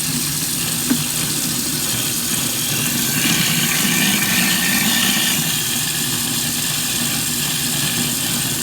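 Kitchen garbage disposal motor running steadily with a constant hum. There is a brief click about a second in, and the sound grows louder and brighter for a couple of seconds around three to five seconds in.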